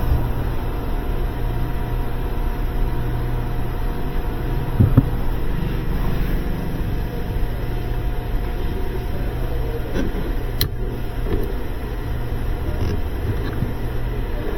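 2011–2016 Kia Optima 2.4L running, a steady low rumble, with a short knock about five seconds in and a sharp click about five seconds later.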